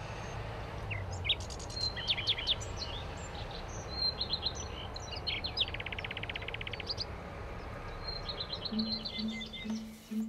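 Several songbirds chirping and singing, with one rapid trill lasting about a second around six seconds in, over a steady low background rumble.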